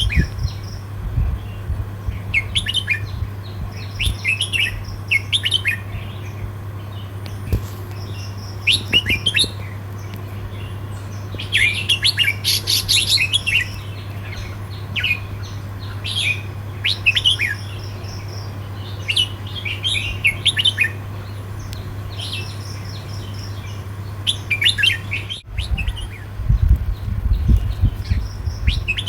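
Red-whiskered bulbul singing short, warbling phrases again and again with brief pauses between them, over a steady low hum. Near the end, low rumbling thumps join in.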